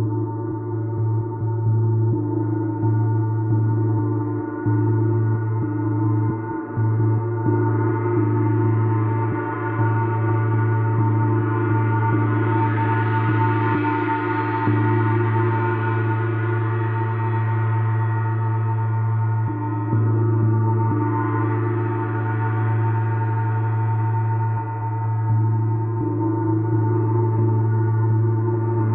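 A gong played continuously in a gong bath: a sustained wash of overlapping ringing tones over a strong low hum. The upper shimmer swells up about halfway through, fades, and swells again a little later.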